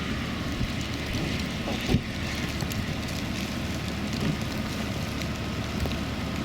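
Wind buffeting the microphone over a vehicle running, with a faint steady whine on top. A single thump about two seconds in.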